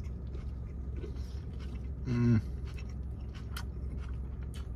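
A person chewing a mouthful of lettuce-wrapped burger, with faint wet mouth clicks, over a steady low hum. A short closed-mouth 'mm' hum about two seconds in.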